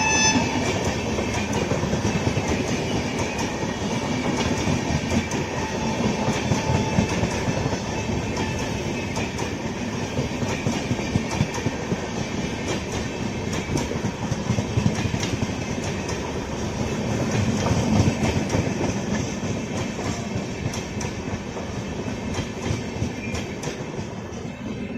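Passenger train of LHB coaches running past, its wheels clattering steadily over the rail joints, after a train horn cuts off just after the start. The clatter eases a little near the end.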